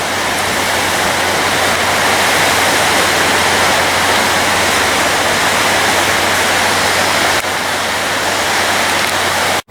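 Loud, steady rushing of the flood-swollen, turbulent Mohawk River channel, cutting off suddenly at the end.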